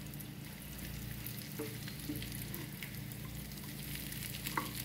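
Corn tortilla pieces frying in oil in a skillet, with a steady sizzle and crackle. They are stirred with a plastic spoon, with a couple of short scrapes against the pan.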